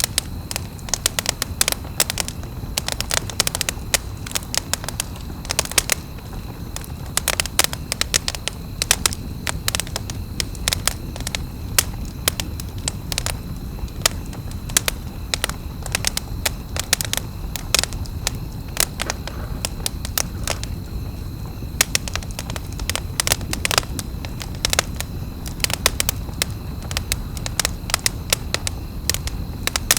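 Wood campfire crackling, with frequent irregular sharp pops over a steady low rush of burning.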